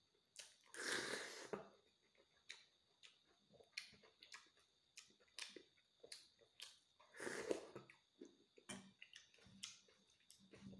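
Close-up eating sounds: soft, wet chewing clicks and smacks repeating throughout, with two louder, longer slurps as spoonfuls of insect larvae in broth go to the mouth, one about a second in and one about seven seconds in.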